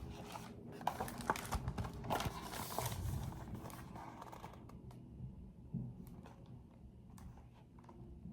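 Faint rustling and small clicks of a paper picture book being handled, its pages turned, busiest in the first few seconds and then sparse.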